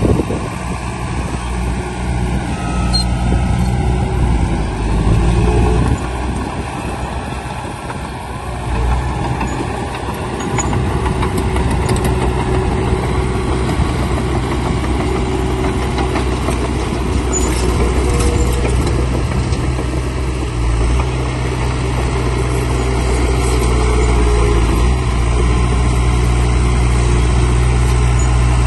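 Heavy diesel engine of earthmoving machinery running steadily, easing off for a few seconds about a quarter of the way in, then holding an even, slightly rising run.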